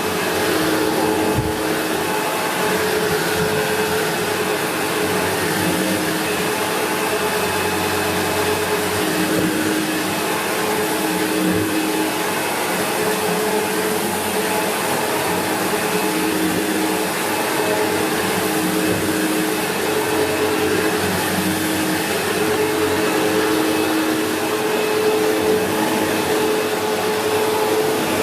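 SEBO X4 Extra upright vacuum cleaner running steadily, its motor and brush roll pushed back and forth over carpet.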